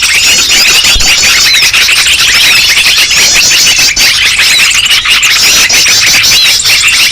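Dense, unbroken chorus of many small birds calling at once: rapid overlapping chirps, trills and chattering alarm notes, a noisy bird-lure recording used to draw birds in.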